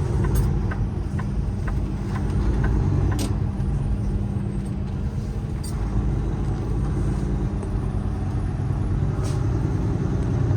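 Semi truck's diesel engine and road noise heard from inside the cab while driving, a steady low drone. A light regular ticking, about two or three a second, runs through the first few seconds.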